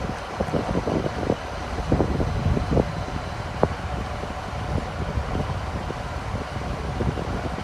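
Train moving through a railway station: a steady low rumble with irregular knocks and clicks.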